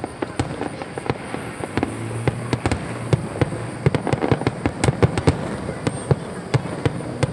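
Fireworks going off in a dense, irregular string of sharp pops and bangs of varying loudness, many overlapping, with no pause.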